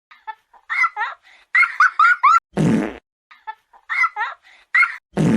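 Cartoon fart sound effects: two short noisy blasts of about half a second, about two and a half seconds in and near the end. Between them come runs of quick, high-pitched squeaky chirps that rise and fall in pitch, like giggling.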